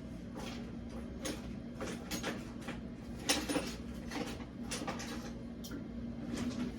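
Scattered light knocks and clicks of someone searching kitchen drawers and cupboards for a bottle opener, the loudest a little past three seconds in. A steady low hum runs underneath.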